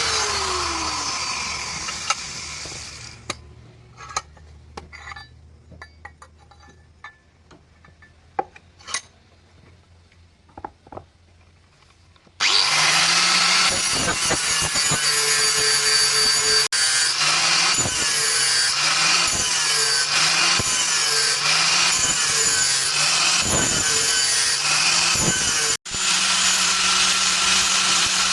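A power tool spinning down and fading, a few light taps and clicks while it is off, then the tool running again at work, starting abruptly about halfway through, with a brief drop near the end.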